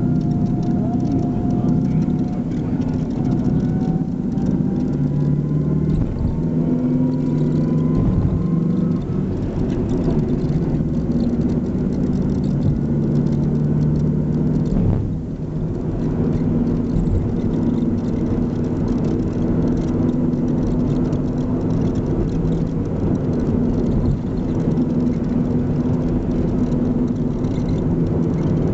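Motor vehicle engine running steadily, with a faint whine that rises slowly in pitch over the first several seconds.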